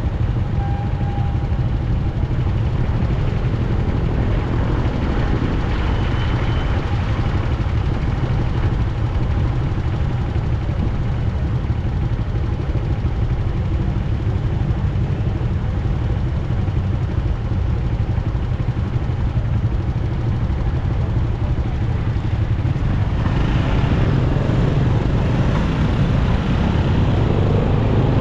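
A motorcycle ridden through city traffic: steady engine and road noise, getting louder over the last few seconds.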